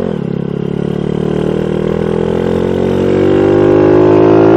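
SSR Razkull 125 pit bike's small single-cylinder engine under way. Its pitch drops sharply at the start with a gear change, then climbs steadily and grows louder as the bike accelerates.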